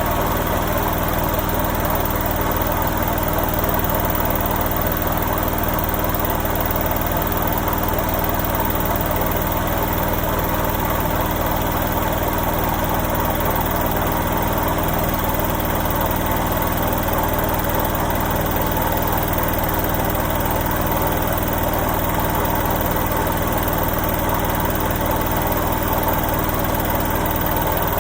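Washing machine running with a steady, unchanging mechanical drone and hum.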